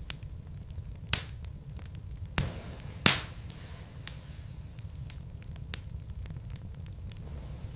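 Wood fire crackling in a fireplace: burning logs give off scattered sharp pops and snaps, the loudest about three seconds in, over a low steady rumble of the flames.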